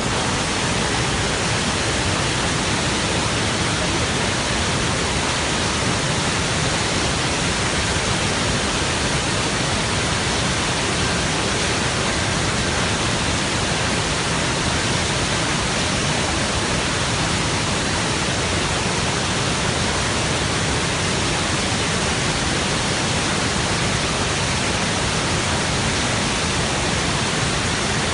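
Chitrakot waterfall on the Indravati River: the steady, unbroken rush of a large mass of falling water.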